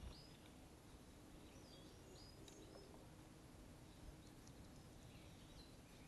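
Faint chirps of small garden birds, a few short calls scattered here and there over a low, steady background noise.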